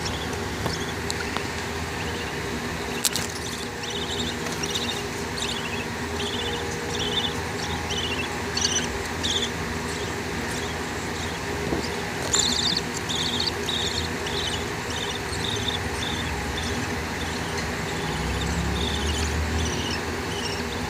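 Baby budgie's high, squeaky begging cheeps, many short calls in quick runs, while it is being fed by an adult budgie, over a steady low background hum.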